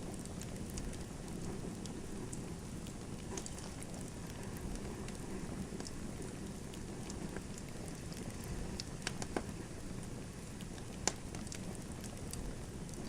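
Wood fire crackling in a fireplace: a steady low rumble of burning with scattered sharp pops and snaps, a few close together about nine seconds in and a louder pop about eleven seconds in.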